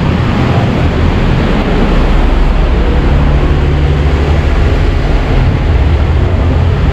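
Heavy rain and busy road traffic: a steady rush of noise with the low drone of a heavy vehicle's engine, such as a bus, coming up about three seconds in.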